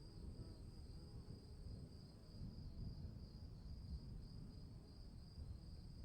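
Crickets chirping faintly in a steady, rapidly pulsing trill, over a low rumble.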